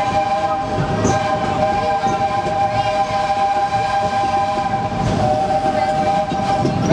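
Steam locomotive whistle blowing one long chord held for about seven seconds, over the rumble of the moving train.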